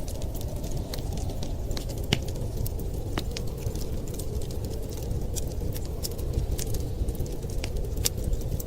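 Wood fire crackling, with sharp, irregular pops and snaps over a steady low rumble.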